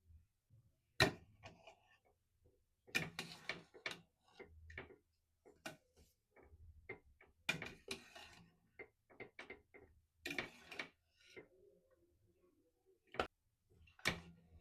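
Kitchen utensils and cookware handled: irregular clinks, knocks and short scraping rattles, with the sharpest knock about a second in.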